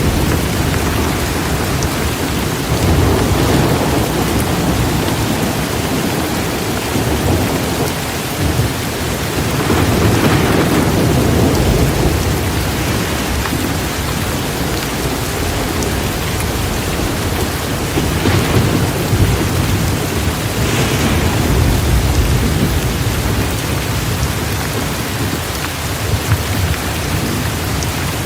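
Torrential rain pouring steadily, with low rolling thunder swelling up several times.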